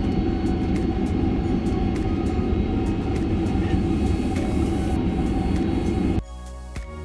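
Boeing 767-300ER cabin noise as the aircraft moves on the ground: a steady low rumble with engine hum and a faint regular ticking. About six seconds in it cuts off abruptly and quiet music takes over.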